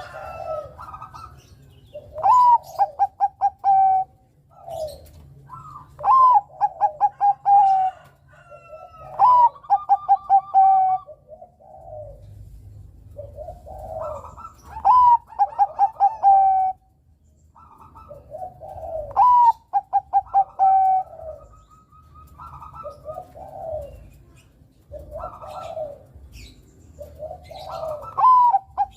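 Bangkok-type zebra dove (perkutut) cooing song. Phrases repeat every three to four seconds, each a rising note followed by a quick run of short clipped notes. A low steady hum runs underneath.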